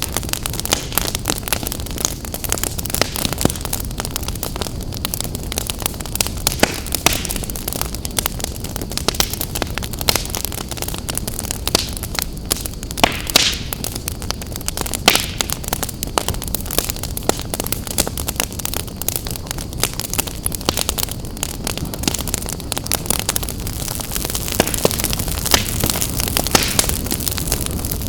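Wood fire burning in a fireplace: a steady low rumble of flames with constant irregular crackling and occasional louder pops.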